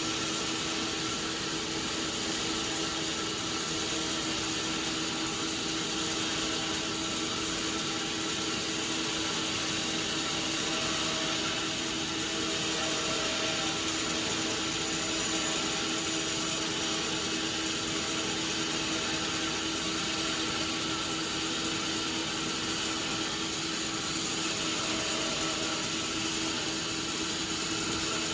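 Sawmill machinery running steadily: a continuous mechanical clatter with a steady hum and a high whine.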